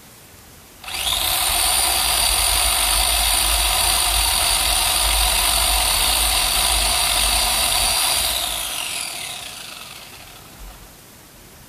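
Electric chainsaw motor starting abruptly with a steady high whine, then released and winding down, its pitch falling until it stops.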